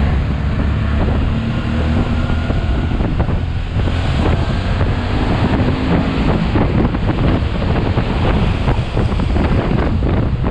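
Motorcycle engine running while riding, under heavy wind buffeting on the microphone. The engine's tone is clearest at first; from about four seconds in the wind rush takes over.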